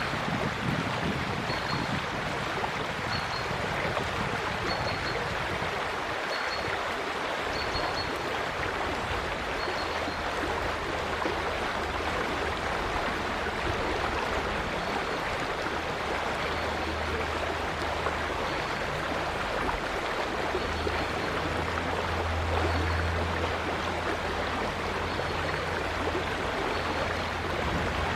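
River water rushing steadily. A faint high bird peep repeats about once a second, and a low hum comes in underneath about a third of the way in.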